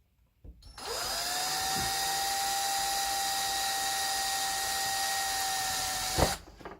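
Cordless drill driving a wood screw: the motor winds up just under a second in and runs at a steady whine for about five seconds, then stops with a sharp knock. The screw is being driven into pine at an angle without a pilot hole and is not starting.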